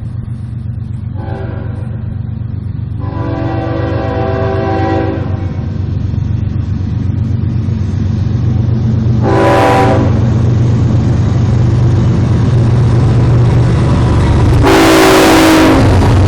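CSX freight train's locomotive horn sounding two long blasts, a short one and a final long one, the grade-crossing signal, over the low rumble of the diesel locomotive growing louder as the train approaches. The last long blast is the loudest.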